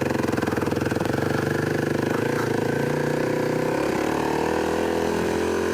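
Dirt bike engine idling steadily, its pitch lifting a little about two thirds of the way in.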